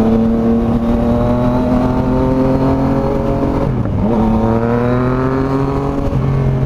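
Yamaha MT-09's inline-three engine through an aftermarket stainless steel exhaust, under way and pulling with the pitch slowly rising. About four seconds in the pitch drops sharply at a gear change, then climbs again.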